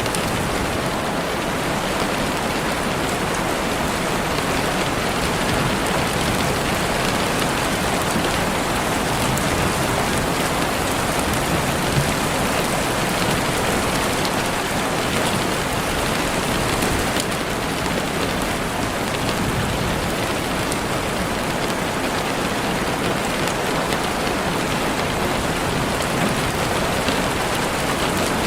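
Heavy rain falling steadily on leaves and the forest floor, a dense, even hiss with no letup.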